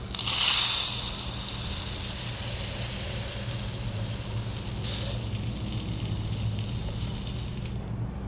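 Birdseed pouring through a funnel into a plastic bottle: a steady hissing rush of seeds, loudest in the first second, that stops suddenly near the end.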